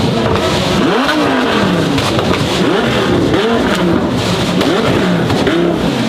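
A car engine revved hard over and over, its pitch swinging up and down about once or twice a second, loud and continuous.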